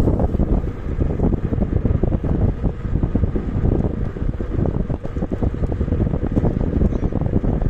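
Wind buffeting the microphone of a rider on a moving KuKirin G2 electric scooter: a dense, steady low rumble.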